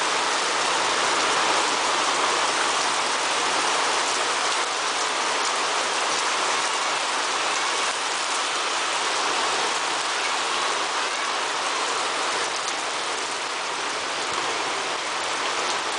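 Heavy rain pouring down in a steady, dense hiss during a violent storm, easing slightly near the end.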